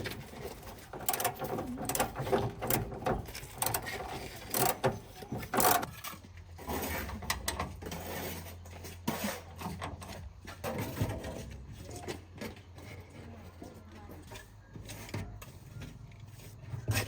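Mechanical clicking and knocking of hand tools working on metal parts, busiest in the first few seconds. A steady low hum sets in about six seconds in and carries on underneath.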